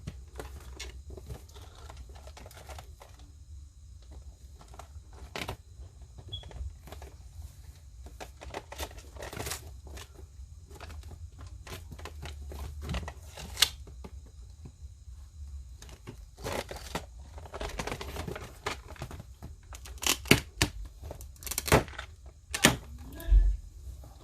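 Action figure packaging being handled: cardboard and plastic rustling with scattered sharp clicks and taps, a cluster of louder ones near the end, over a low steady hum.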